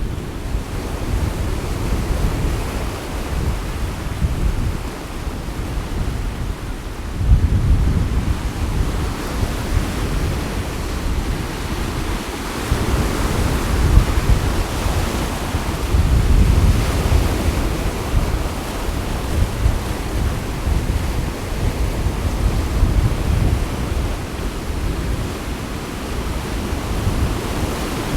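Sea waves washing against the shore with gusty wind buffeting the microphone; the wind swells in heavy gusts about 7 seconds in and again midway through.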